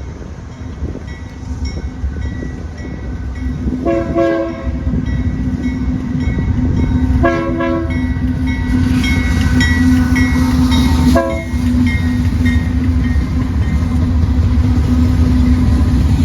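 A train approaching and getting steadily louder, its rumble building, with three short horn blasts spread across the passage.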